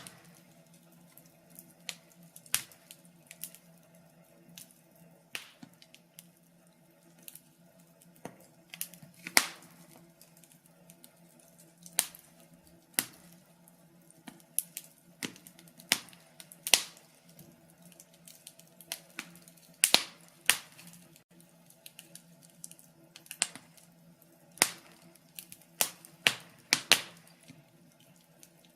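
Wood fire in a fireplace crackling, with irregular sharp pops and snaps at uneven intervals, some much louder than others, over a faint steady hum.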